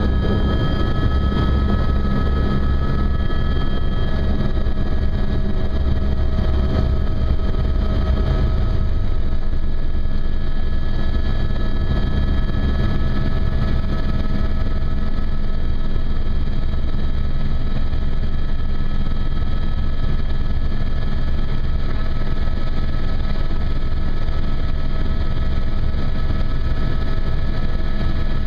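Helicopter in flight: a steady, loud rotor beat with a constant turbine whine on top.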